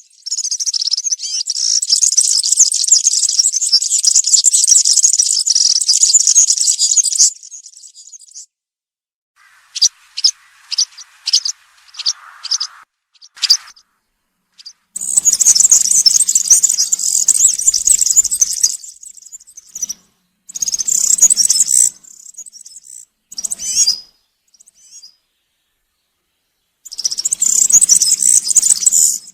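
European serin singing its fast, high-pitched jingling song in several bursts of a few seconds each. Between the bursts come short, separate chirps and pauses.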